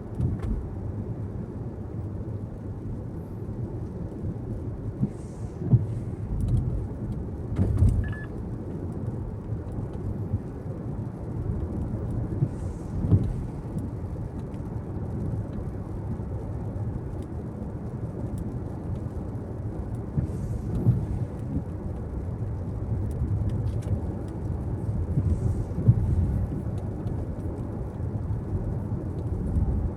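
A car driving along, with a steady low road and engine rumble and a few short thumps scattered through it.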